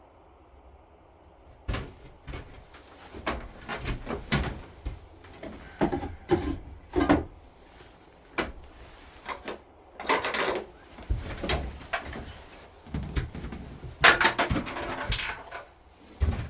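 A run of irregular knocks, clunks and short scraping noises of things being handled, starting about two seconds in, with the sharpest knock near the end.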